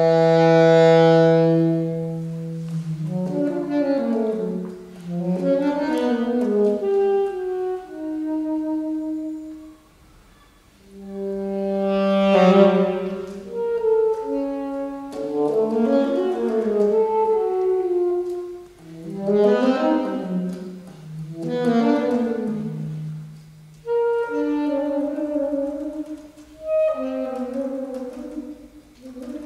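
Solo saxophone playing a contemporary concert piece. It opens with a long, loud low note held for about two and a half seconds, then moves through phrases of quick runs and swelling held notes, with a short pause about ten seconds in.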